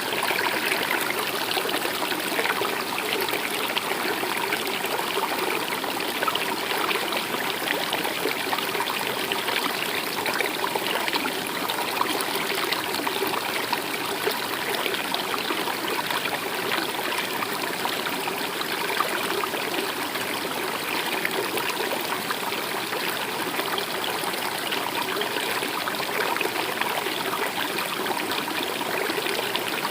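A stream or small river running over rocks, a steady trickling and babbling flow.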